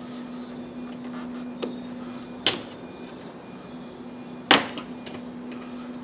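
Two sharp knocks about two seconds apart, the second the louder, with a faint tap before them, over a steady low hum.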